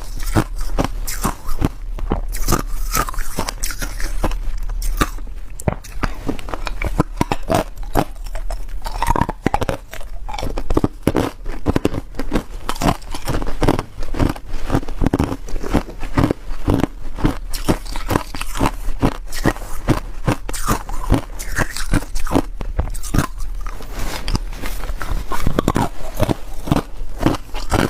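Ice being bitten and chewed close to the microphone: a continuous run of sharp, rapid crunches as hard ice cracks between the teeth.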